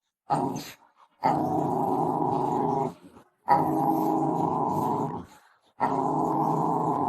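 A dog growling in long drawn-out growls: a short one near the start, then three sustained growls of about one and a half to two seconds each, with brief pauses between them.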